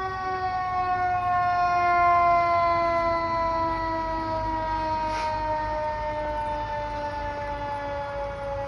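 Fire truck's mechanical siren winding down after a wind-up, its pitch falling slowly and steadily.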